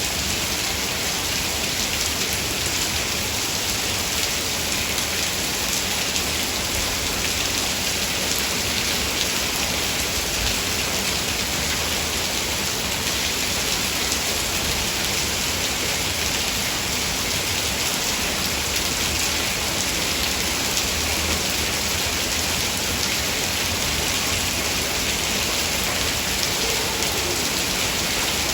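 Heavy rain falling steadily in woodland, a dense even hiss of drops hitting leaves and ground with no let-up.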